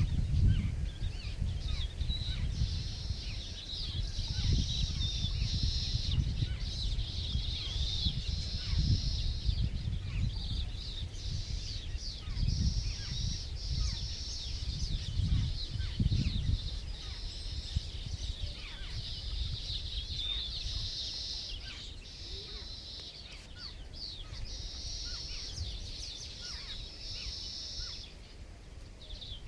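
Birds chirping and calling, with a high trilling sound that comes in stretches of about two seconds again and again, over a steady low rumble.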